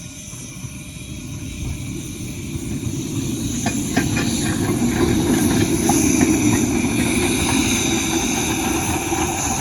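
A double-headed train, two locomotives coupled together, approaching and running past, growing steadily louder. From about three and a half seconds in, its wheels click over the rail joints several times.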